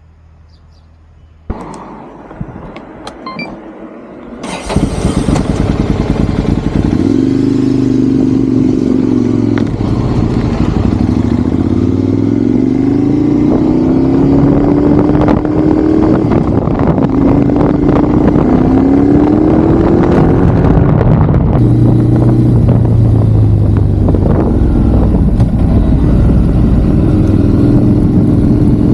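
Ducati Monster's V-twin engine: it comes on about a second and a half in and runs low for a few seconds. About five seconds in it pulls away, revving up and dropping back repeatedly as it shifts through the gears, with wind rushing over the microphone.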